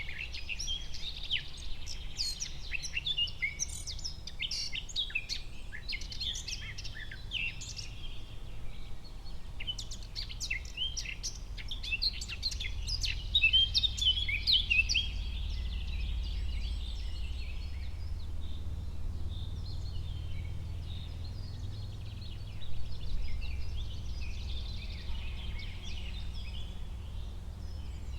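Several birds chirping and singing in a forest, dense for the first half and thinning out later, over a steady low rumble.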